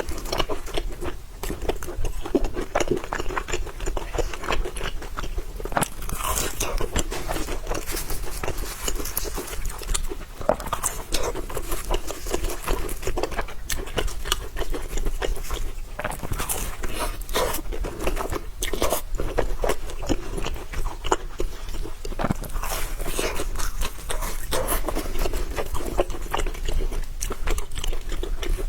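A person chewing and crunching food, a dense run of small crisp bites and mouth clicks.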